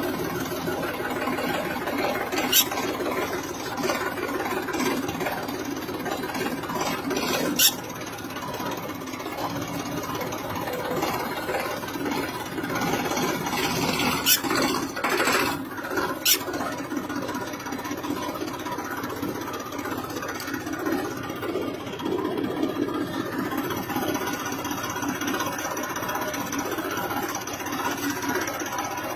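Tractor engine running steadily. A few sharp clicks are heard a few seconds apart.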